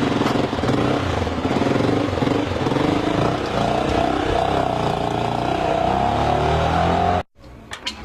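A motor vehicle engine running close, its pitch rising and wavering through the middle, then cut off abruptly about seven seconds in.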